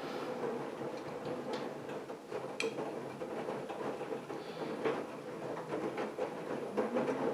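AEG Lavamat washing machine running, with a steady hum and scattered light clicks and knocks from the turning drum.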